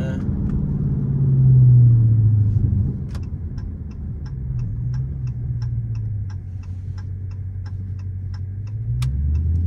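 Dodge Charger Scat Pack's 392 HEMI V8 rumbling from inside the cabin as the car slows, swelling briefly about a second and a half in and again near the end. From about three seconds in, the turn signal ticks steadily at about three ticks a second.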